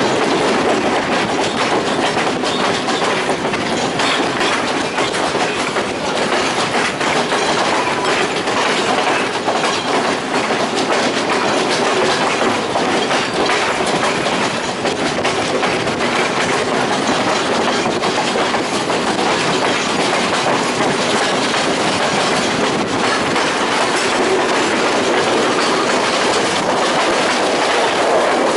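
Passenger train running steadily along the track, heard from on board the carriage: a continuous rumble with wheels clacking over the rail joints.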